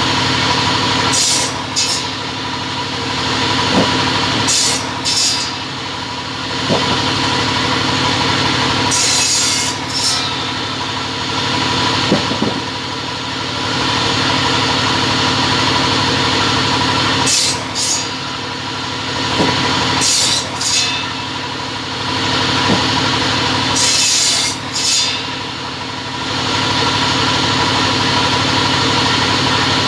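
Double-head cutting saw running with a steady machine hum, broken every few seconds by short paired bursts of high hiss.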